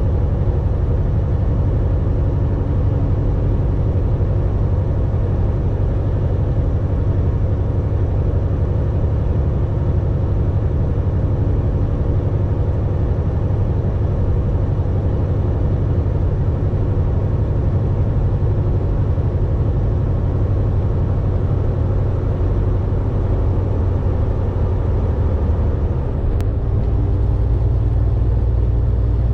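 Volvo VNL 860 semi truck's diesel engine running steadily with road noise while driving, a low hum. Near the end the engine note shifts.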